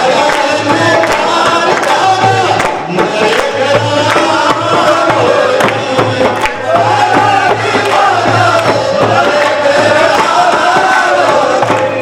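Devotional Shyam bhajan sung by a group of voices over a steady, repeating drum beat.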